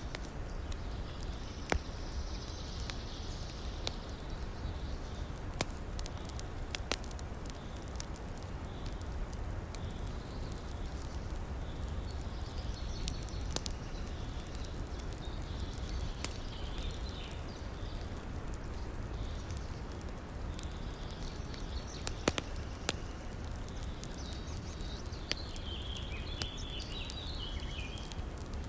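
Campfire crackling with scattered sharp pops over the steady rush of a river. A few short spells of high chirping come in now and then, the longest near the end.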